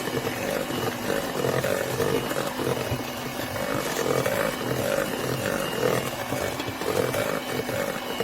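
Electric mixer running steadily, its beaters whipping butter, sugar, eggs and vanilla into a cookie batter until light and fluffy; the motor hum swells and fades in a regular rhythm as the beaters work the bowl.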